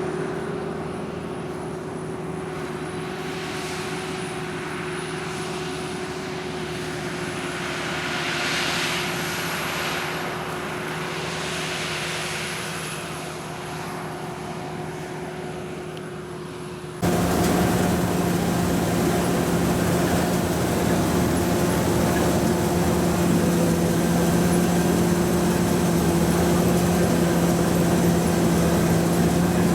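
Paddy-rice combine harvester running steadily under load, engine hum with a constant pitch. About seventeen seconds in it suddenly becomes louder and rougher.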